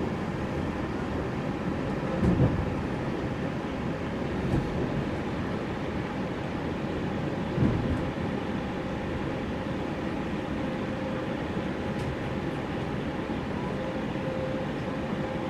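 Steady rumble inside an electric passenger train's carriage as the train slows along a station platform and comes to a stop, with two short knocks from the carriage about two and eight seconds in. A faint steady hum comes up near the end once the train is standing.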